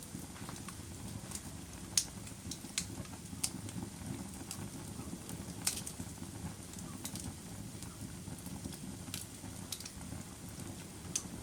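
Wood fire in a fireplace crackling: a steady low rumble of burning logs with irregular sharp pops, about a dozen, the loudest about two seconds in and near six seconds in.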